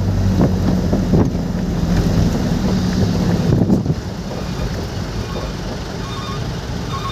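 Vehicle driving in the rain, heard from inside: a steady engine hum over an even wash of rain and road noise that eases about four seconds in. Short, evenly repeated beeps come in near the end.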